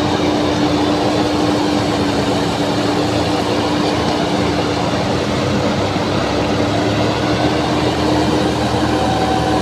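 Heavy farm diesel engine running steadily, a constant drone with a steady low hum that holds without change.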